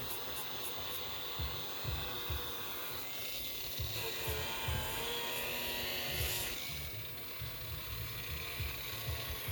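Electric power buffer running on fibreglass gelcoat, compounding. A steady motor whine sits over a low uneven rumble, and the pitch dips and wavers briefly in the middle as the pad is loaded.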